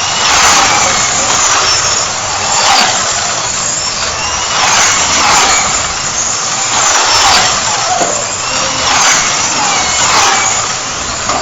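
Several 4-inch stock slot cars racing round the track, their small electric motors whining and rising and falling in pitch as they speed up and brake. The sound swells and fades every couple of seconds.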